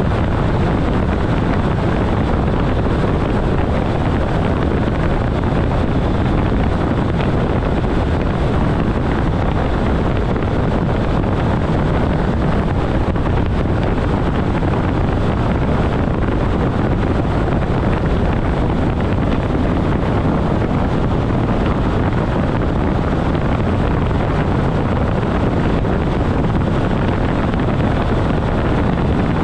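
ÖBB class 4024 Talent electric multiple unit running at speed, about 135 km/h. Its steady running noise stays at an even level, with no horn, clicks or changes.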